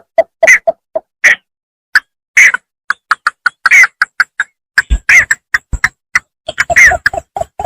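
Bittern (bambangan) calling: rapid runs of short, clucking notes, several a second, in bursts with brief gaps, some louder notes sliding down in pitch. A couple of low thumps fall about five seconds in.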